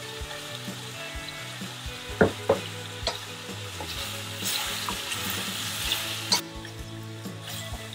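Chicken and kohlrabi chunks sizzling in a stainless steel pot as a wooden spatula stirs them, with a few sharp knocks of the spatula against the pot. The sizzle grows louder for a couple of seconds around the middle, then drops off suddenly.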